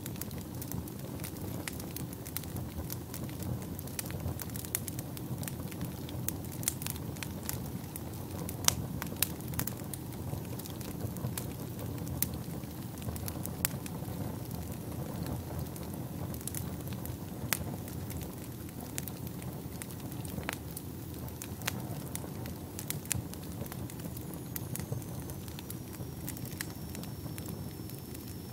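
Fire burning in a fireplace: a steady low rumble of flames with frequent sharp, irregular crackles and pops. A faint high whistle slowly drops in pitch near the end.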